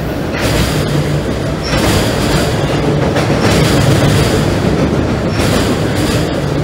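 Freight train cars rolling across a steel girder railroad bridge overhead: a loud, continuous rumble with surges of wheel-and-rail clatter every second or two as the car trucks pass.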